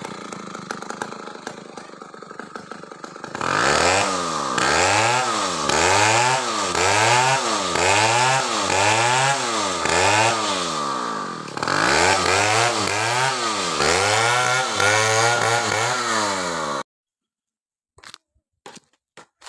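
Stihl two-stroke chainsaw revved up and down over and over, its pitch rising and falling about once a second, with a brief dip partway through. The sound stops abruptly near the end.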